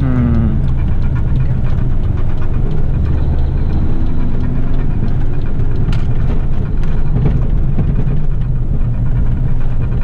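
Garbage truck's diesel engine running steadily, with a short falling tone right at the start.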